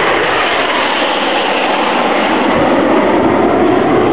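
Jet aircraft engines making a steady, loud rushing noise, growing a little louder near the end as the aircraft pass.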